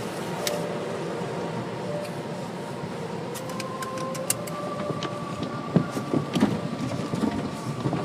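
Car wash machinery running: a steady mechanical hum with a whine that steps up in pitch about three seconds in, and scattered sharp clicks and taps that grow busier in the second half.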